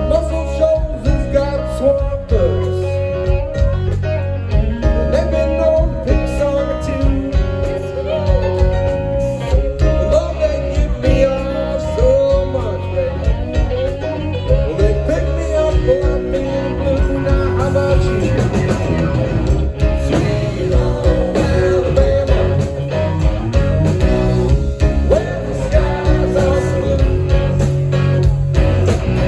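Live band playing a blues-rock number with guitar to the fore.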